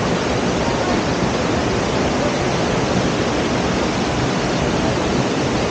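Waterfall: steady, loud noise of falling water.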